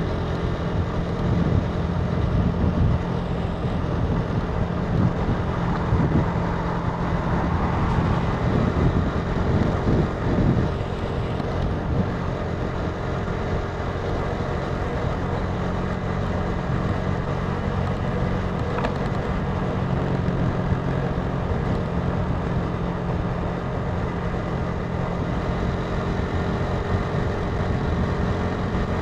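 Italika TC300 motorcycle engine running, rising and falling unevenly for the first ten seconds or so, then holding a steady note.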